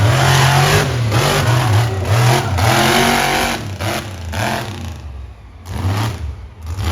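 Monster truck engine revving in loud surges, the pitch rising and falling with the throttle; it eases off about four seconds in, drops almost away just after five seconds, then picks up again near the end.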